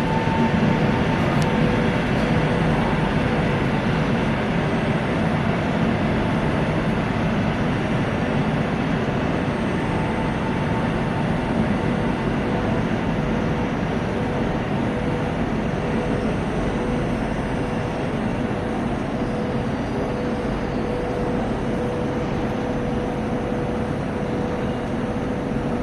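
Electric train at a railway station: a steady rumble with a constant hum held throughout, easing off slightly.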